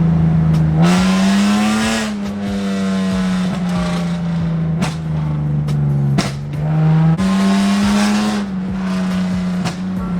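Lexus engine running through its loud single-exit exhaust while driving, a steady drone that rises in pitch twice as it accelerates and drops back between. A few sharp cracks come through near the middle and toward the end.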